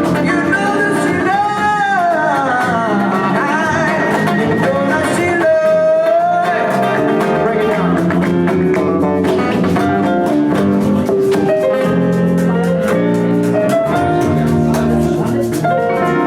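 Live band playing, with guitar and a steady drum beat under a lead line of sliding, bending notes and one long held note about halfway through.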